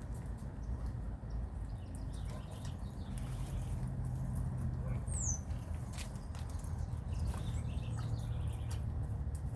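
Small birds moving about with light scattered clicks and scratches, and one short high falling chirp about five seconds in, over a steady low rumble.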